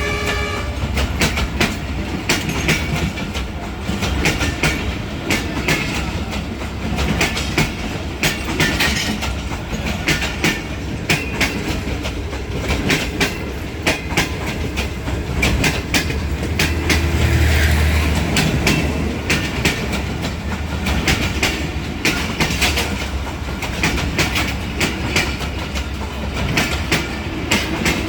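Wheels of a moving passenger train clattering over rail joints in a dense, uneven clickety-clack, with a steady low rumble that swells briefly about two-thirds of the way through.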